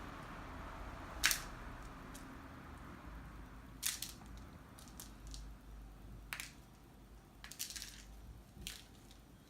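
A cat playing with a toy mouse: about five short, sharp taps and scuffles spread out a second or two apart, as it bats and pounces on the toy.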